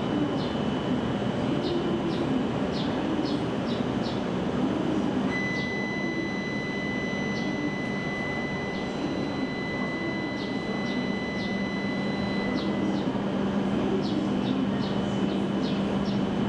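Shinkansen platform sound: a train's steady running noise and a low hum that grows stronger about a third of the way in. A clear high steady tone sounds for about eight seconds in the middle, over repeated short high chirps.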